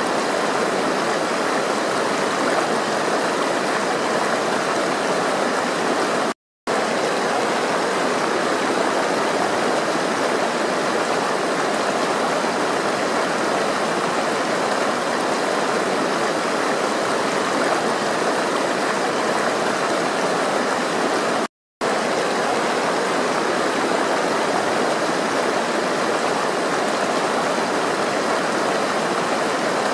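Water flowing steadily, a constant rushing of a stream, cut by two brief silent gaps, about six seconds in and again about twenty-two seconds in.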